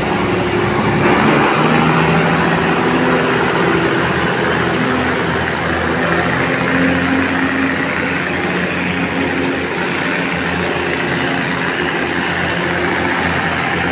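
Diesel railcar train running close by: a loud, steady engine drone over rumbling noise, with the engine pitch shifting a few times.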